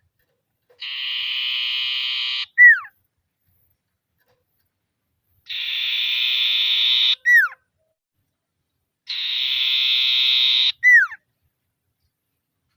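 Common iora (sirtu, cipoh) giving its rattling trill call three times: each a buzzy, even trill of about a second and a half ending in a short whistle that drops in pitch. It is the 'ngetir' call used to challenge a rival.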